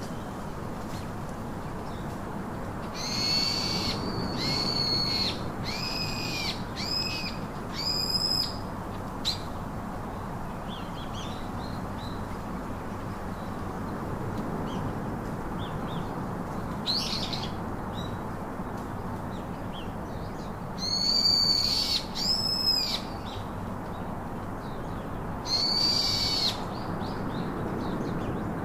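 A bird giving short, clear whistled calls in loose groups: about five in quick succession early on, then single calls and pairs with long gaps. Under them is a steady background hiss of outdoor ambience.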